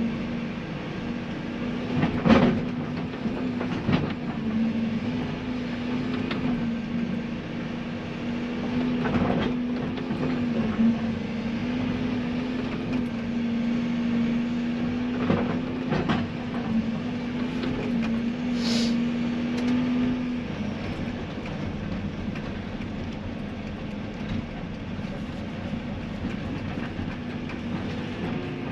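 Tracked digger working: engine running with a steady hum under load that drops away about two-thirds of the way through, with a number of sharp clanks from the tracks and bucket and one brief high squeal.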